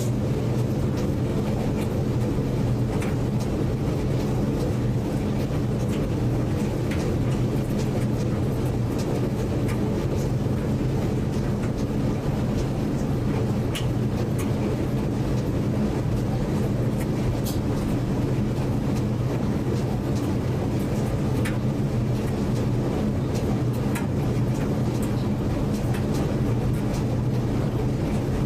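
Washing machine running a cycle: a steady low hum with faint scattered ticks and clicks.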